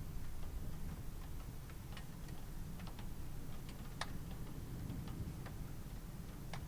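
Rain ambience: scattered, irregular drip ticks of raindrops, a few a second at most, over a steady low hum.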